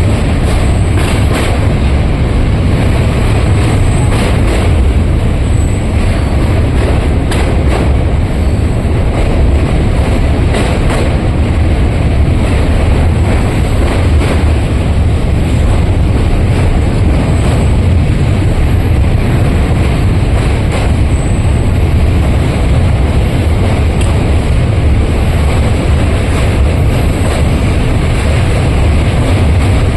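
Steady, loud rumble of a moving vehicle, with deep low-end buffeting like wind on the microphone and no break or change throughout.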